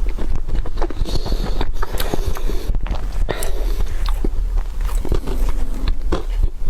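Close-miked eating: a person biting and chewing, with many short crisp clicks and crackles over a steady low rumble.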